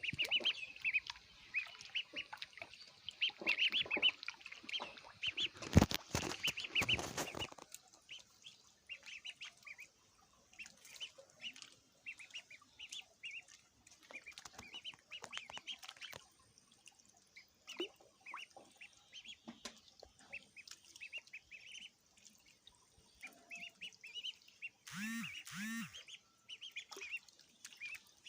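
Ducklings peeping over and over in short, high calls. A brief burst of rustling noise comes about six seconds in, and two deeper calls from a larger bird come near the end.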